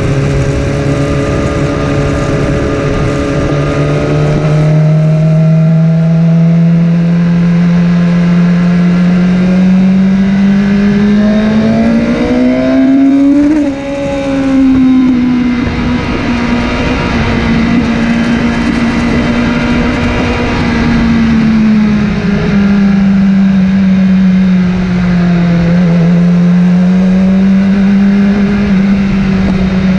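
Motorcycle engine running while riding, its note rising steadily to a peak about halfway through, with a brief drop in level there. It then holds level, sags a little and rises again near the end.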